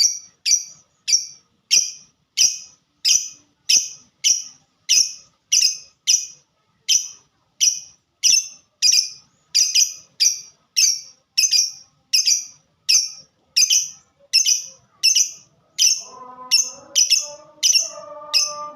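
Lovebird giving its 'ngetik' typing call: sharp, high, evenly spaced chips, about one and a half to two a second, repeated steadily. A lower pitched sound joins in for the last few seconds.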